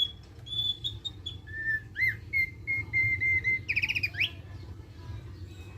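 Thick-billed white-eye (opior paruh tebal) singing. First come a few clear whistled notes, then a run of evenly repeated notes, then a quick trill that ends in a rising sweep about four seconds in. A steady low hum runs underneath.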